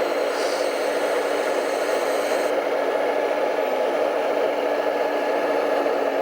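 Electric motor and gears of a radio-controlled model vehicle whirring steadily at an even pitch.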